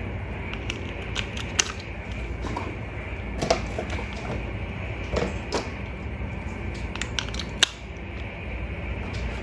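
Plastic toy parts being handled: scattered light clicks and taps, three of them sharper, over a steady low hum.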